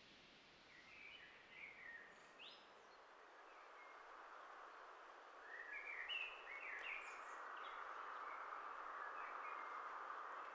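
Faint small-bird chirps in short clusters, a few about a second in and a denser run around the middle, over a steady outdoor hiss that grows a little louder partway through.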